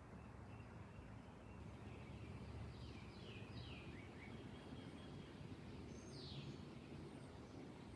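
Faint background noise with a few distant bird calls: a short run of high, downward-sliding notes about three seconds in, another near six seconds, and a few tiny high chirps.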